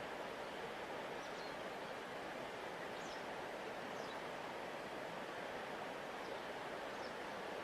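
Steady rushing of a large river flowing past its bank, an even hiss of water, with faint short high chirps now and then.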